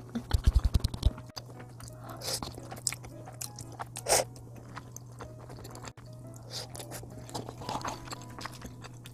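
Close-miked chewing and crunching of a crispy coated sausage hot dog, with many small crunches, a quick run of low thumps in the first second, and a short noodle slurp about four seconds in.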